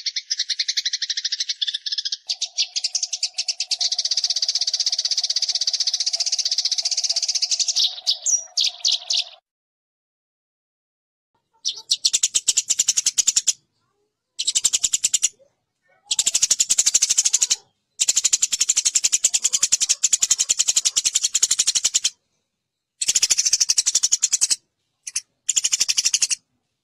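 Eurasian tree sparrows (burung gereja) fighting, giving fast, harsh, dense chattering calls. The chatter runs continuously for about nine seconds, partly over a steady lower tone. After a cut to dead silence of about two seconds, it returns in blocks that start and stop abruptly.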